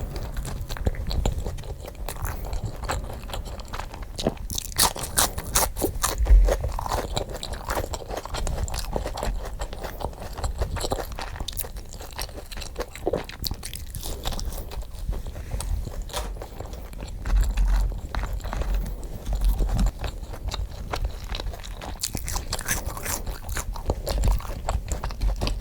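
Close-miked eating, sped up: crunchy bites and chewing come thick and irregular, with frequent sharp crunches and low thumps.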